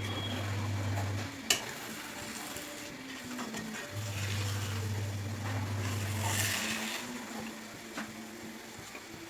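Egg and onion masala sizzling gently in a frying pan, the sizzle swelling for a couple of seconds midway, with a sharp tap of a utensil on the pan about a second and a half in and again near the end. A low hum comes and goes underneath.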